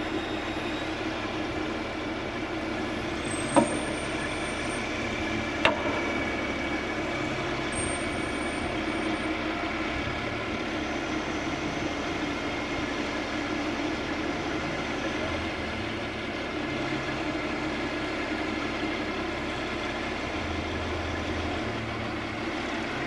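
Heavy crane engine running steadily under load while timbers are lifted off a truck, with two sharp knocks about three and a half and five and a half seconds in.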